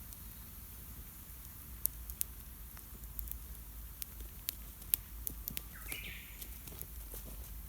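Campfire of wet wood crackling in light rain: scattered sharp pops and snaps, thickest in the middle seconds, with one brief higher-pitched sound about six seconds in.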